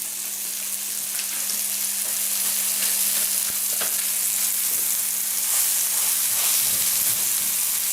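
Vegan burger patties sizzling steadily in hot oil in a frying pan, with scattered small crackles and pops of spitting fat. A steady low hum runs underneath.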